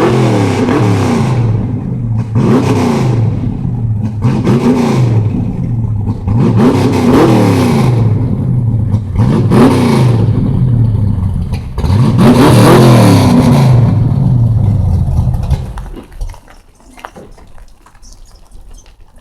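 Car engine revved hard again and again, about six times, each rev climbing up to the rev limiter and falling back. Near the end the engine sound drops away, leaving only faint noise.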